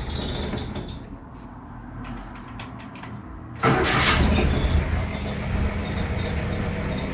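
1962 International Harvester Scout 80's 152 cubic inch four-cylinder engine running, with a sudden louder surge about three and a half seconds in before it settles back to steady running.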